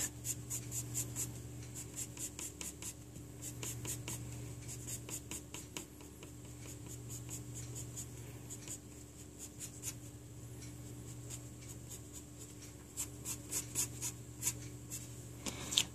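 Pencil scratching quick, short shading strokes on paper. There is a rapid run of strokes at the start and again near the end, with sparser strokes in between, over a low steady hum.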